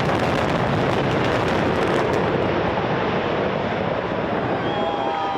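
Rumble of a hotel building collapsing in a demolition implosion: a loud, long rumble that slowly fades, with whistles from onlookers coming in near the end.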